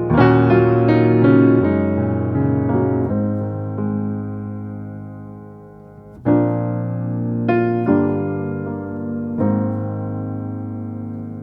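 Slow, gentle piano music: soft chords struck and left to ring out and fade, a new chord about six seconds in and another near the end.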